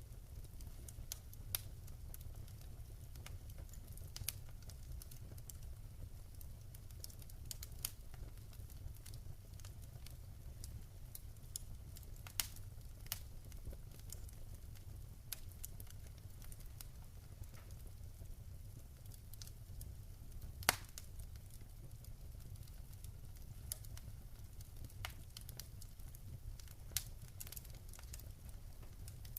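Wood fire crackling, with irregular sharp pops and snaps scattered throughout, one louder pop about two-thirds of the way through, over a steady low rumble.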